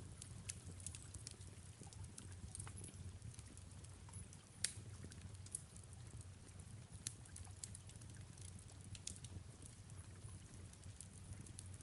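Fireplace crackling with soft rain: irregular sharp pops and ticks over a low steady rumble and faint hiss, with one louder pop about four and a half seconds in.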